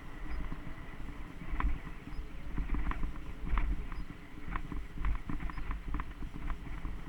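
Mountain bike rattling over a rough dirt trail: irregular sharp clicks and knocks from the bike over a steady low rumble of tyres and wind.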